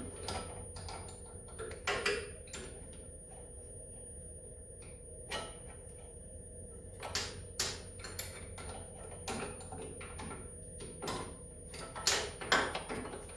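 A hand wrench working a snowmobile starter's mounting bolt a quarter turn at a time: scattered metal clinks and scrapes at uneven intervals, a few louder ones about two seconds in and again near the end.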